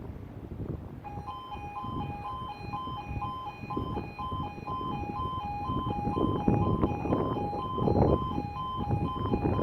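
Level crossing warning alarm (E2S sounder) starting about a second in: an alternating two-tone beep, about two cycles a second, warning that a train is approaching. A low rumbling noise underneath grows louder toward the end.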